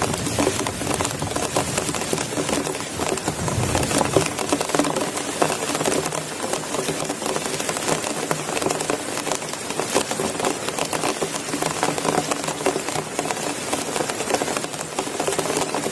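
Heavy rain pattering on a surface: a dense, steady hiss of many drop impacts.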